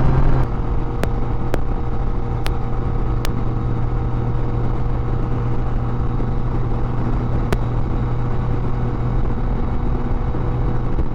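Yamaha Tracer motorcycle running at a steady cruise on the highway, its engine drone held at one pitch under wind and road noise, with a few light clicks.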